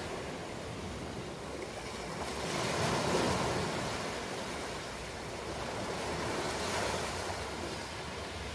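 Ocean waves washing onto a shore, a steady rushing surf with one wave swelling loudest about three seconds in and a smaller one near seven seconds.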